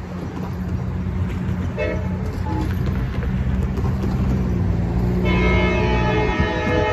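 Amtrak passenger train's diesel locomotive approaching, a low steady rumble growing louder. About five seconds in, the locomotive's multi-note air horn starts sounding a sustained chord and holds it, as is usual for a grade crossing.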